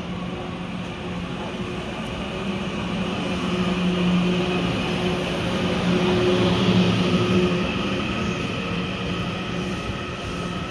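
E001 Shiki-shima train pulling out of the station: a steady rail and motor hum with held low tones, growing louder over the middle of the stretch and then easing off.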